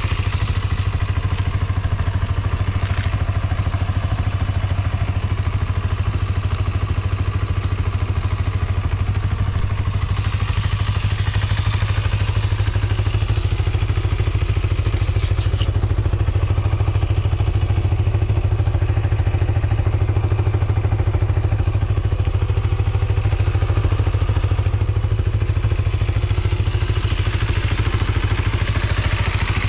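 Kawasaki GPX250's liquid-cooled parallel-twin engine idling steadily, with no unusual mechanical noises.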